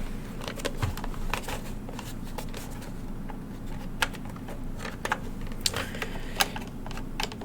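An old intercom unit being handled: scattered sharp clicks and taps, a few louder ones near the middle and end.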